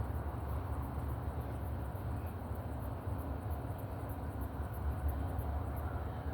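Outdoor walking ambience: a steady low rumble with a faint, high insect chirp pulsing a few times a second, typical of crickets.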